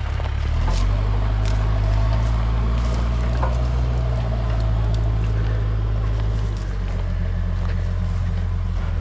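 Backhoe's diesel engine running steadily under work, its note shifting about a third of a second in and again about six and a half seconds in, with a few faint short cracks.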